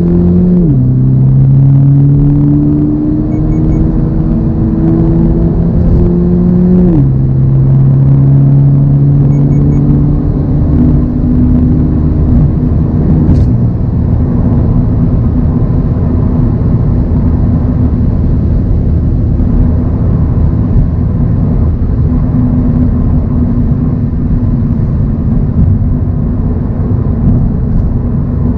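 2024 Toyota GR86's 2.4-litre flat-four engine pulling through the gears: its pitch climbs, drops at a shift about half a second in and again about seven seconds in, climbs once more, then from about thirteen seconds holds a steady drone at cruising speed over road and tyre noise.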